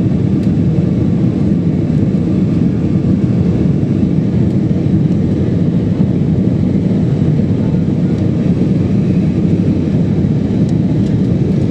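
Steady, loud jet airliner cabin noise in flight: engine and airflow noise heard from inside the passenger cabin, even throughout with no clear change.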